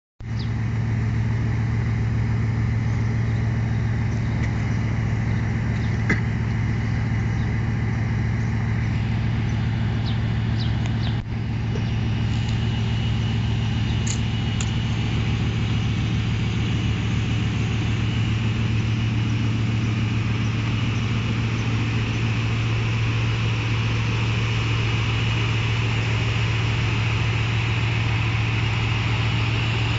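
Bugatti Veyron's quad-turbocharged 8.0-litre W16 engine idling steadily, a constant low drone.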